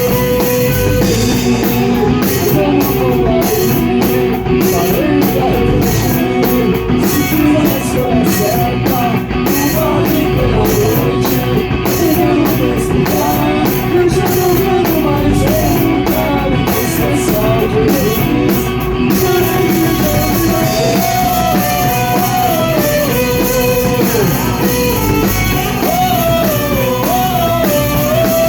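Rock band playing live: electric guitar, bass and drum kit, with a lead melody line over them.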